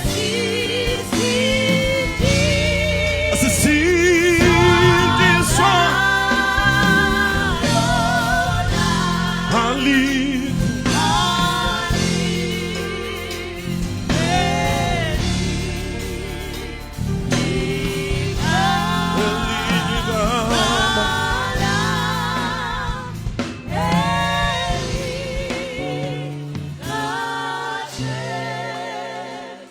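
Gospel praise-and-worship singing with a choir and instrumental backing, voices held in long notes with vibrato over a steady bass.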